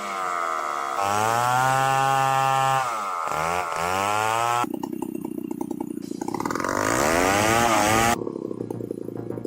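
Large two-stroke chainsaw, a home-built saw of the Stihl 070 kind, revving up and down as it cuts, its pitch rising and falling. The sound changes abruptly about halfway through and again near the end, turning rougher and more broken.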